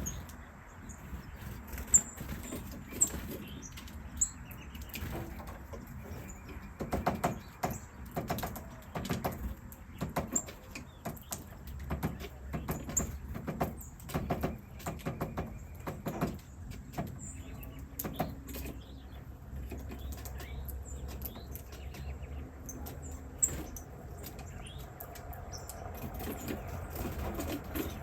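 Tiny birds giving short, high chirps every second or so, with bursts of rustling and wing fluttering in the middle stretch.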